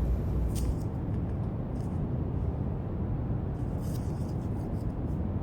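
Steady brown noise, a deep, even hiss weighted to the low end, with a few faint scratchy strokes of drawing on paper now and then.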